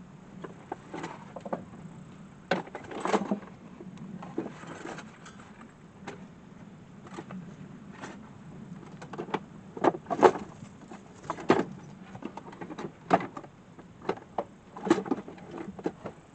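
Irregular knocks, clicks and rattles of camp cooking gear being handled and rummaged through while looking for utensils, over a faint low steady hum.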